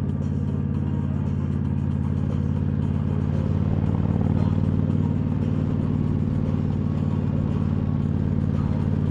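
Motorcycle engine running at a steady cruise, its note swelling slightly about four seconds in.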